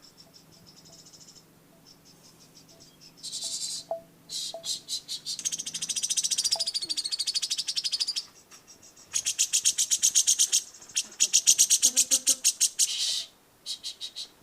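Songbird singing fast, high rattling trills made of rapid repeated notes. Faint at first, the trills grow loud about three seconds in and pause briefly twice.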